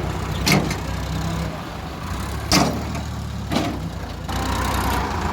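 Diesel tractor engine running steadily, with three sharp knocks, and the engine picks up a little about four seconds in.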